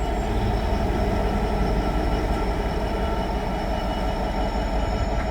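Class 66 diesel-electric locomotive's EMD two-stroke V12 running steadily: a low rumble with steady whining tones over it, the sound spotters call its 'yinging'.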